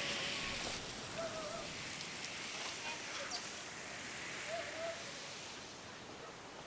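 Outdoor seaside ambience: a steady hiss of ocean surf and breeze, with a few faint short warbling calls.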